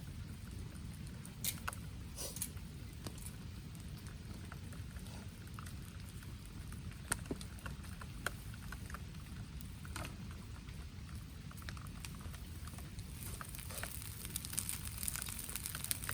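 Rain pattering steadily, with scattered sharp ticks and pops throughout and a denser patter near the end.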